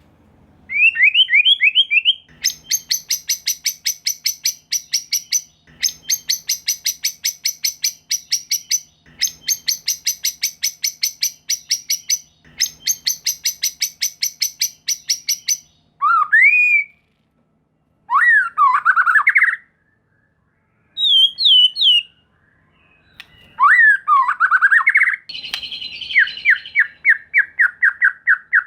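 White-rumped shama (murai batu) singing: four runs of fast, harsh rattling notes, each lasting about three seconds, then loud rising whistled phrases and a quick trill near the end.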